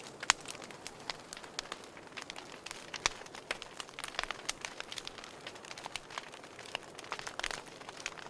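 Wood fire crackling in a fireplace: irregular sharp pops and snaps, several a second, over a soft steady hiss of burning, with a few louder pops scattered through.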